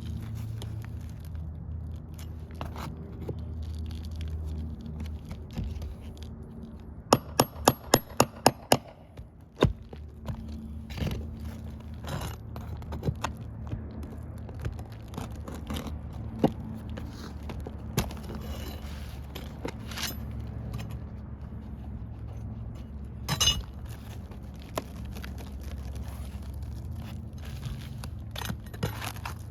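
Roof shingles being lifted and their nails pried loose: scraping and scattered metal clinks over a steady low hum, with a quick run of about eight sharp taps about seven seconds in.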